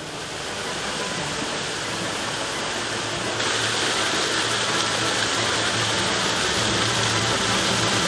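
Water pouring over a small rock waterfall into a pool: a steady splashing rush that gets louder and brighter about three and a half seconds in.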